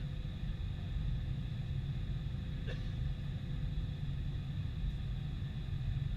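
Boeing 747-400 jet engines running steadily: a constant low rumble with a steady high whine over it. A faint short sound is heard near the middle.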